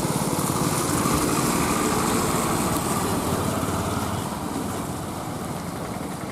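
Small engine of a mini cargo truck running as it drives past, growing fainter from about four seconds in.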